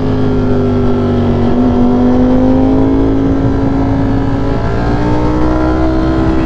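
V4 naked sport motorcycle engine running under way at steady throttle. Its note dips about a second and a half in, then rises slowly as the bike gathers speed.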